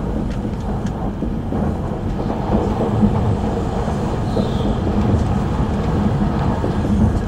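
Steady low rumble of a Tohoku Shinkansen train running, heard inside the passenger cabin.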